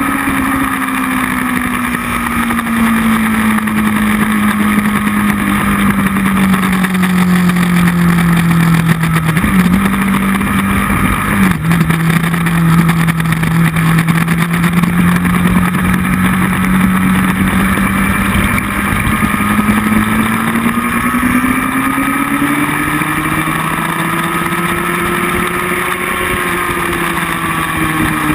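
Motorcycle engine heard from an onboard camera on a race track under heavy wind rush. The engine note sinks gradually, breaks with two quick blips about a third of the way in, holds steady, then climbs about two-thirds through and eases off again near the end.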